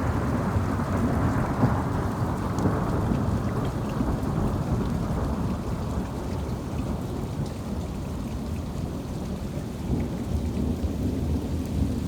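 Long rolling thunder rumble from a nearby lightning strike, starting just before and slowly fading, with a second swell about ten seconds in, over the steady hiss of heavy rain.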